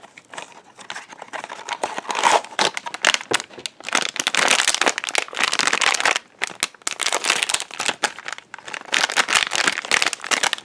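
Blind-box packaging being opened by hand: the cardboard box and the foil wrapper inside it crinkling and rustling in quick, irregular crackles.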